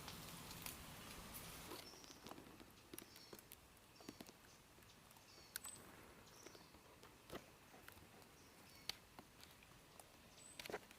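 Near silence broken by faint scattered clicks and taps, with a few small high chirps.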